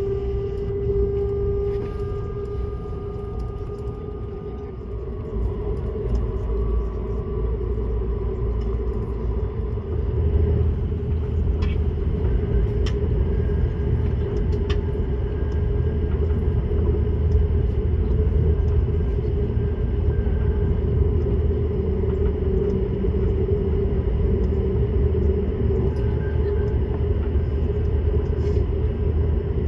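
ICE high-speed train running at speed: a steady low rumble with a constant hum, growing louder about ten seconds in, with a few faint clicks.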